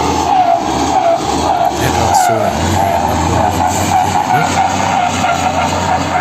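Heavy lorry's diesel engine running hard under load: a steady low drone with a wavering high whine rising and falling over it.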